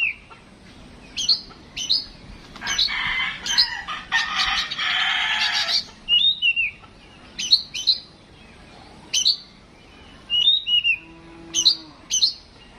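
Captive Oriental magpie-robin (kacer) singing in short whistled notes and sharp chirps, with a harsh, scratchy rattling phrase of about three seconds a few seconds in.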